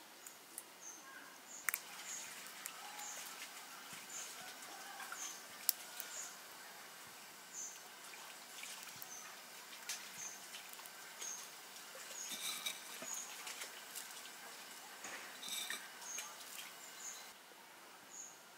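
Short high-pitched chirps of a small bird, repeating roughly once a second, with occasional sharp clicks and knocks.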